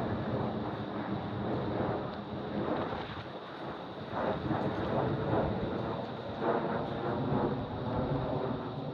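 Aircraft passing overhead: a steady, fairly loud engine rush with wind buffeting the microphone.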